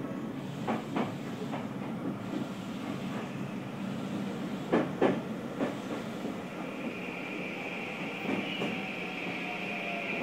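Running noise of a Tokyu 6020 series electric train heard from inside the car, with the air conditioning running. The wheels clack over rail joints a few times, and a steady high whine comes in about two thirds of the way through.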